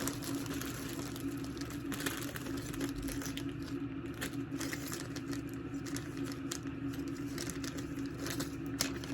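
Plastic packaging crinkling and rustling, with scattered small clicks as jewellery is handled, over a steady low hum.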